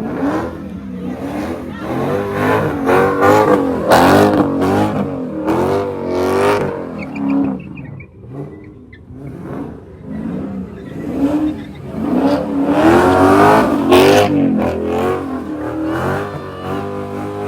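Car engine revving hard, its pitch rising and falling in waves again and again, with brief louder noisy flares.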